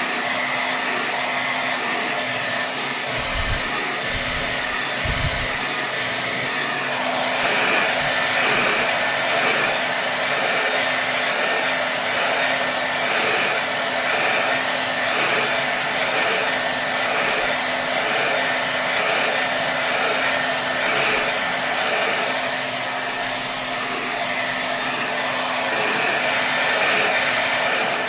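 Hair dryer blowing steadily at full power: an even rush of air with a steady motor hum. From about seven seconds in, the airflow takes on a faint regular pulsing.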